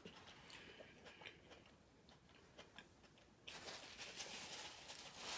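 Faint chewing and small wet mouth clicks of someone eating snow crab legs. About three and a half seconds in, a soft rustle of a paper napkin being handled begins.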